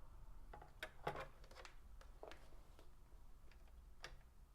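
Faint, scattered clicks and light knocks from hands working a vinyl turntable, putting on a record and moving the tonearm, over low room hum; a cluster of clicks about a second in, a last one near the end.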